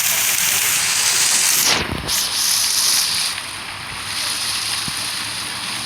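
Steady hiss of falling, splashing water from a park fountain. Wind briefly buffets the microphone about two seconds in, and the water sounds a little quieter after about three seconds.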